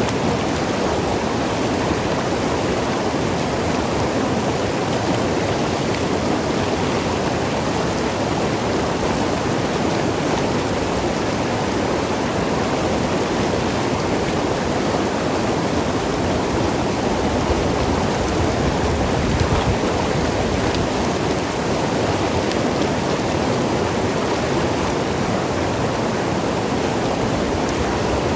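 Mountain river rushing and gurgling over rocks: a steady, full wash of water noise.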